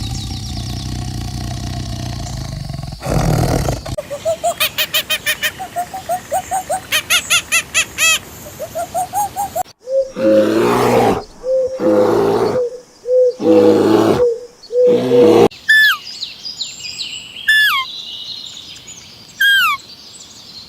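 A run of different animal calls, one after another: a low rumbling call for the first few seconds, then a fast series of short rising calls, then five loud drawn-out calls, and last a small bird's repeated falling chirps.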